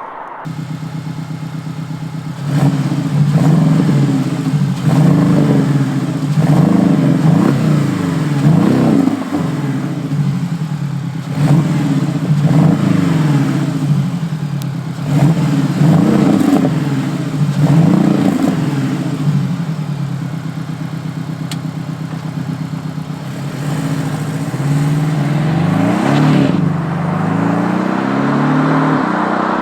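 Porsche 718 Cayman T's turbocharged 2.0-litre flat-four through a Baq Exhaust active aftermarket exhaust: idling briefly, then revved over and over in quick climbs and falls of pitch, settling to a steady run before climbing in pitch again near the end.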